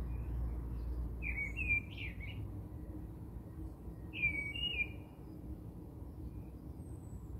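A bird chirping in the background: two short warbling calls, about a second in and about four seconds in, over a low steady rumble.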